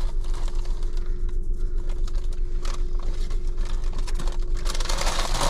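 Car engine idling, heard from inside the cabin: a steady deep hum with an even pulse and a constant drone above it. A rush of hissing noise comes in near the end.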